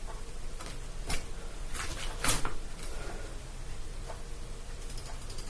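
Several separate light knocks and clicks, the strongest a little past two seconds in, with faster clicking near the end.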